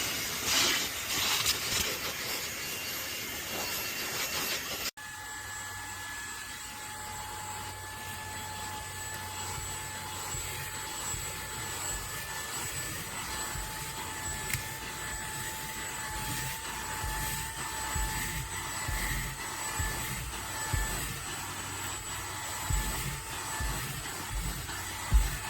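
Fanttik Slim V8 Apex cordless handheld car vacuum running. About five seconds in, the sound cuts abruptly and resumes as a steady high whine over a low rumble.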